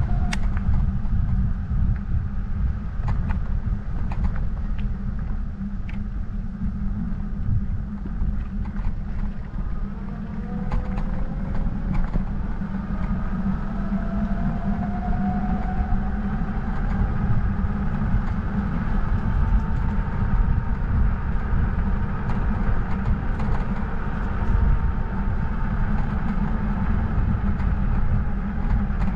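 Wind buffeting the camera microphone and tyre rumble during a bike ride: a steady, loud low rumble with no speech.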